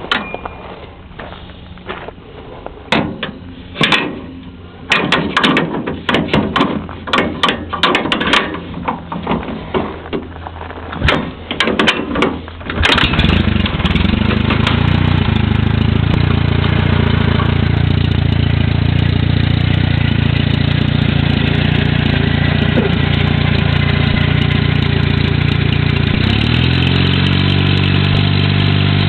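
The engine of a 1937 Eimco Power Horse tractor being started: irregular bursts and clicks for the first dozen seconds, then the engine catches about thirteen seconds in and runs steadily. Its speed rises near the end.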